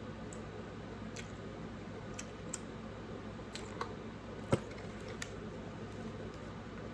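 Small clicks and taps of someone eating, over a steady low hum, with one sharper click about four and a half seconds in.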